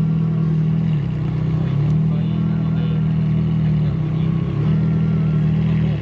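A car engine running at low revs, its deep exhaust note shifting up and down in steps about once a second.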